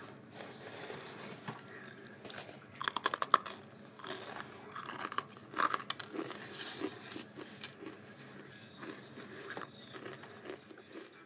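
A crisp cracker being bitten and chewed right at the microphone. The loudest crunches come about three seconds in and again around six seconds, with softer chewing in between.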